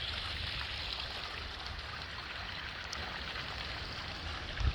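Steady hiss of heavy rain falling, over a continuous low rumble.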